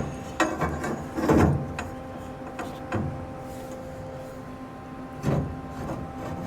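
Scattered knocks and clunks from handling metal parts and tools in a workshop, about half a dozen over a few seconds, over a steady electrical hum.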